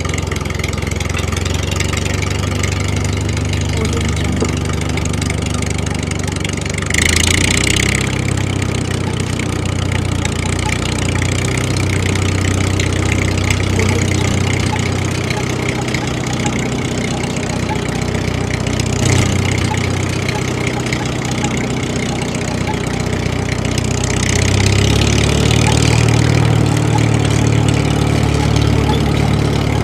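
An engine running steadily at idle, with short bursts of hiss about a quarter of the way in and again near the end.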